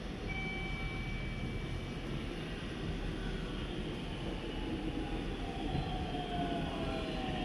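Electric commuter train approaching a station platform and slowing as it arrives, a steady rumble with a whine that slowly falls in pitch and grows louder in the second half.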